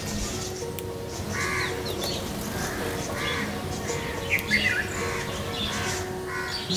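Crows cawing repeatedly, one short call about every second, over background music with sustained notes. A brief burst of quicker, higher chirps from small birds comes about four and a half seconds in.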